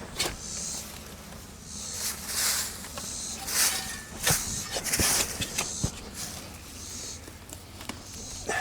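Irregular rustling and crunching with a few sharp clicks about four to six seconds in.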